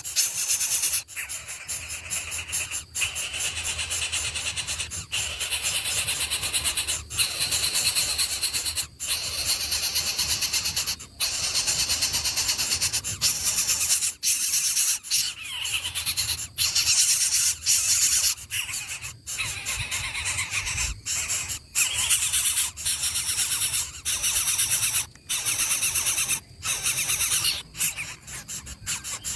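Nestling birds begging in the nest: a dense, high-pitched squealing chorus, broken by brief gaps every second or two.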